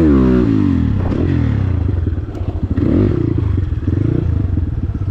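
Dirt bike engine revving: a rise and fall in pitch at the start, then running with the throttle opening and closing.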